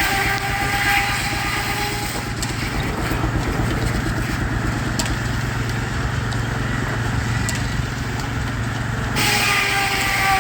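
Baker 23-90 Uniflow steam traction engine running steadily under belt load, driving a sawmill, with a fast even pulsing. A whining tone that bends in pitch comes at the start and again near the end.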